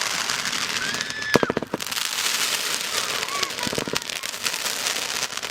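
Consumer fireworks going off, a dense run of rapid crackles and pops, with a brief high whistle-like tone about a second in.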